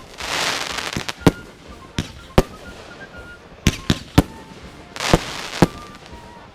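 Fireworks going off: a run of sharp bangs at irregular intervals, with a stretch of hissing crackle near the start and another about five seconds in.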